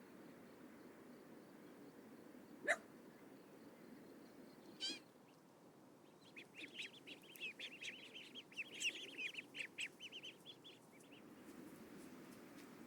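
Domestic fowl calling faintly in a quick run of short honking notes for about five seconds, after a single sharp knock near the start.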